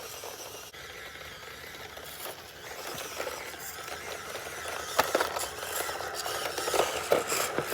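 Small 1/18-scale RC crawler truck scrabbling up a dirt and rock slope: steady scraping and grinding noise that grows a little louder, with a few sharp knocks of the truck striking rock about five and seven seconds in.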